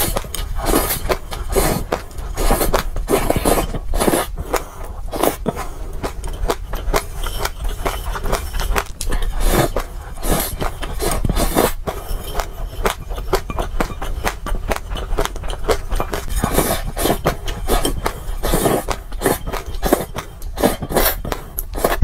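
Dry mixed seeds crunched and chewed close to the microphone: a dense, irregular crackling, with seeds scraping and rattling as a spoon scoops them in a glass bowl.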